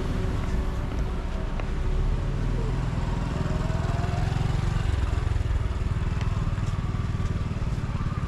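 Steady low rumble of motor vehicle engines, motorcycles among them.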